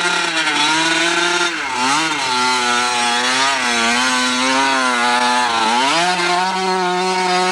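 Small dirt bike engine running hard. The revs hold, dip sharply about two seconds in, climb back, hold again, then drop and rise once more near the end.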